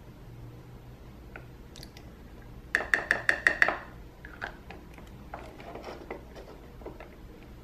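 Hard plastic parts of a toy toilet candy kit clicking as it is handled: a quick run of about seven sharp, ringing clicks a little under three seconds in, then scattered lighter clicks and taps.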